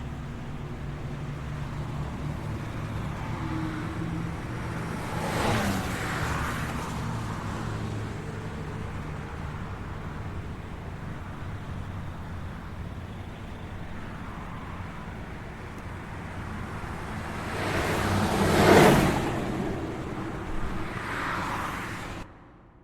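Road traffic: a steady rumble of engines, with vehicles passing by, the loudest one swelling and fading about 19 seconds in. The sound cuts off suddenly near the end.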